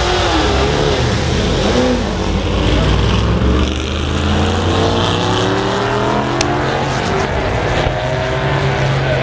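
Engines of several stock race cars running at speed on the circuit, their notes overlapping, with pitch falling as cars pass by.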